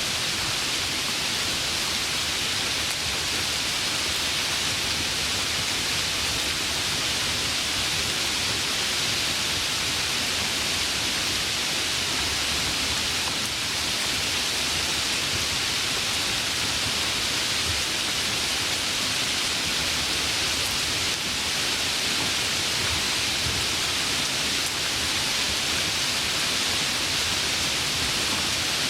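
Heavy rain falling steadily: an even hiss with no breaks and no thunder.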